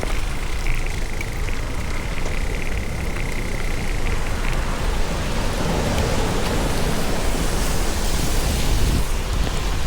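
Heavy rain hissing steadily while riding through it, with wind rumbling on the microphone. The hiss swells about six seconds in and eases near the end.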